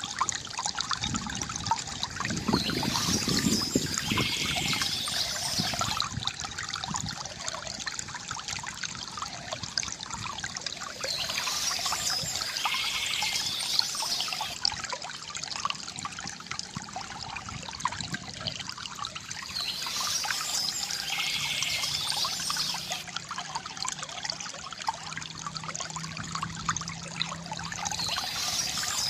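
Stream water trickling and splashing steadily over stones, with a bird singing a short phrase high above the water sound that comes back about every nine seconds.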